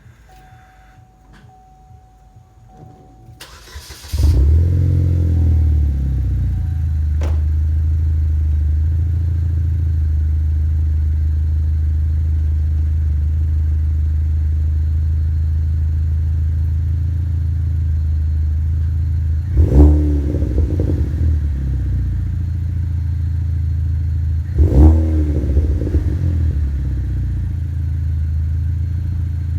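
Pontiac G5 GXP's LNF turbocharged four-cylinder engine warm-started about four seconds in, catching at once and settling into a steady, deep exhaust idle. The throttle is blipped twice later on, each a short rev that drops straight back to idle.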